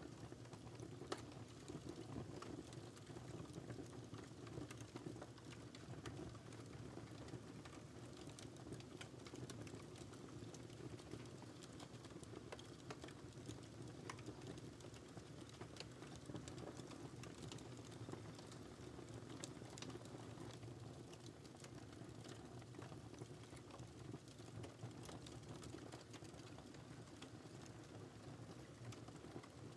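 Wood fire crackling faintly: a soft steady low rush of burning with frequent small irregular pops and snaps, one sharper pop about a second in.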